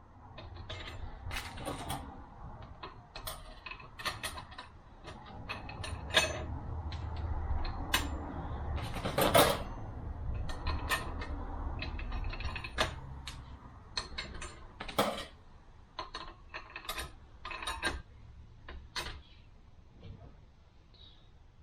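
Metal parts of a 42RE automatic transmission's clutch pack and a hand tool being worked on the bench: a run of irregular metallic clicks and clinks, with a longer scrape about nine seconds in.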